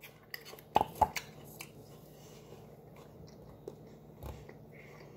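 A child chewing a bite of raw apple dipped in icing: a few sharp crunches in the first two seconds, then quieter chewing.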